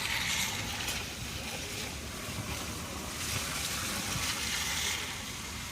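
Road noise from inside a car creeping down a snowy dirt road under hill descent control: a steady low rumble with tyre hiss.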